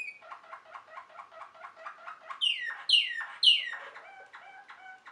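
Waterslager (Malinois) canary singing: a quick run of repeated notes, about six a second, then three loud falling whistled slurs about two seconds in, then a few shorter notes that stop just at the end.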